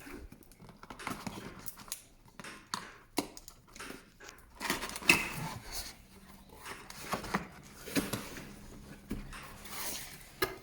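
Cardboard box being opened and its packaging handled: irregular knocks, scrapes and rustles, with one sharp knock about five seconds in.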